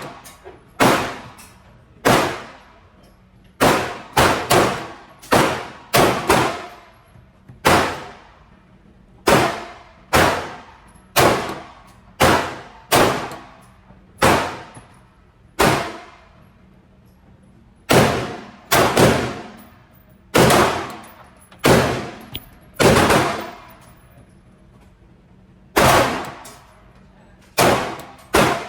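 Glock 45 9mm pistol firing shot after shot in an indoor range, about thirty shots, many in quick pairs. Each shot cracks sharply and rings off the walls.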